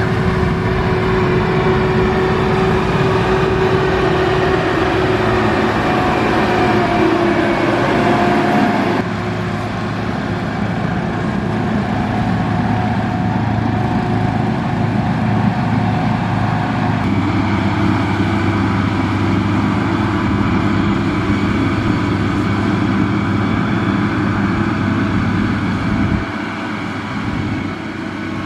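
Motor grader's diesel engine running steadily, with a steady whine over its note. The sound changes abruptly twice, about a third of the way in and past halfway, and drops somewhat in level near the end.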